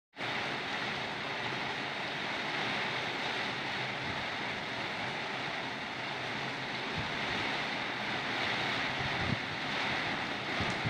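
Heavy rain pouring in a steady hiss, with wind gusting across the microphone in a low rumble.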